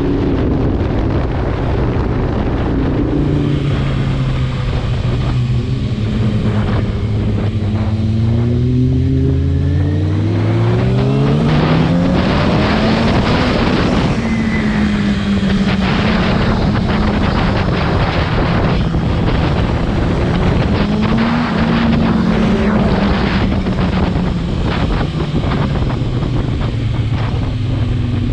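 Motorcycle engine under hard acceleration, its pitch climbing steadily for several seconds about a third of the way in, then holding near a high steady rev with small rises and dips. Heavy wind rush runs underneath throughout.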